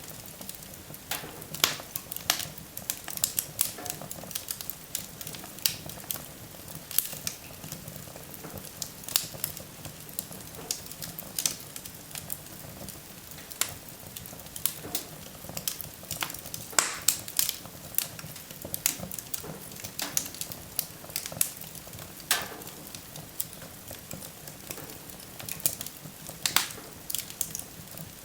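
Wood fire burning in a fireplace: irregular sharp crackles and pops over a steady low hiss.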